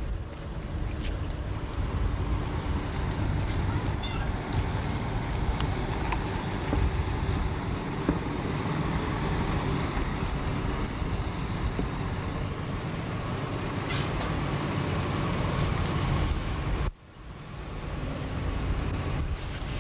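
Motorboat under way: engine running with wind buffeting the camcorder microphone. The sound drops out suddenly near the end and then comes back.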